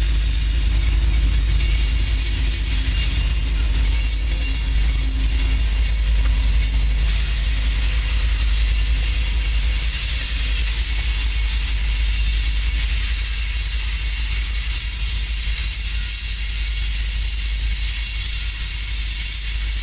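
Freight train passing close by. The diesel locomotives' engine drone fades over the first several seconds, then a string of loaded covered hopper cars rolls past with steady wheel-on-rail rumble and hiss.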